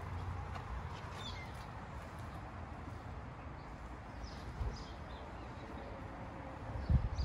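Outdoor ambience: a few faint, short bird chirps over a steady low wind rumble on the microphone, with some low thumps near the end.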